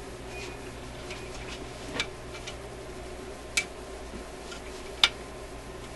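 Three sharp clicks, about two, three and a half and five seconds in, with lighter ticks between, as a hand tool grips and slips on a stubborn screw holding a tube radio's metal shield can. A steady low hum runs underneath.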